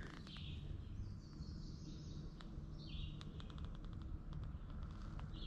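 Faint wild bird calls, a few short chirps, over a steady low rumble on the microphone, with a quick run of faint ticks about three seconds in.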